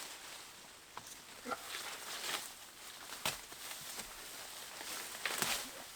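Irregular rustling and crackling of undergrowth being cleared by hand and trampled, with a couple of sharper snaps, one about three seconds in and a louder one near the end.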